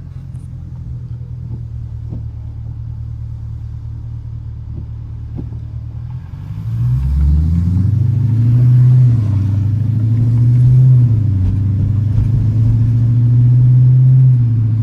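Dodge Challenger R/T's 5.7-litre HEMI V8 running at a steady low drone, then about six seconds in it opens up and gets louder, its note climbing under acceleration and dipping a couple of times as the gears change before settling into a steady, louder run.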